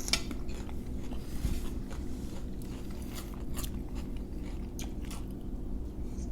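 People chewing and biting into food, with scattered short crisp crunches over a steady low hum.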